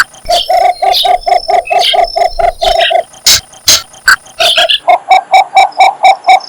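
Cinnamon bittern giving its mating call: a fast, even series of short croaking notes, about four or five a second. The series breaks off for about two seconds in the middle, then starts again. Fainter high chirps from other birds come through at times.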